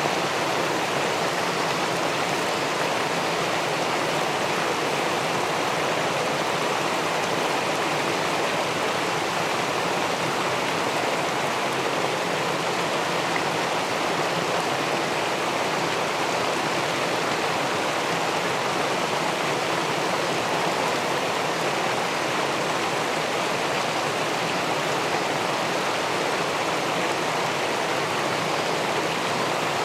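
Steady rushing of river water pouring over a weir into the pool below, an even, unchanging noise.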